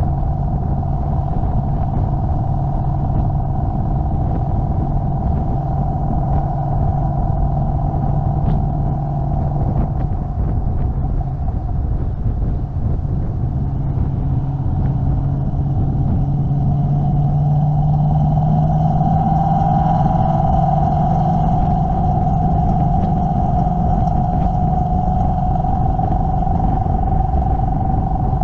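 Car engine droning at a steady cruise over low road rumble, its note lifting slightly and growing a little louder about two-thirds of the way through.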